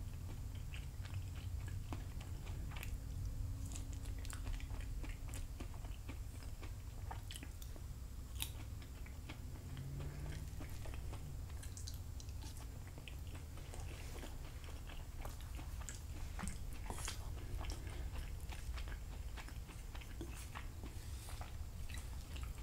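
A person chewing food close to the microphone, mostly chicken and roasted sweet potato, with many small scattered mouth clicks and smacks over a faint steady low hum.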